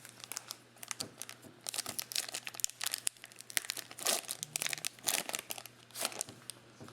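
Foil trading-card pack wrappers crinkling and tearing as football card packs are opened, a dense, irregular run of crackles.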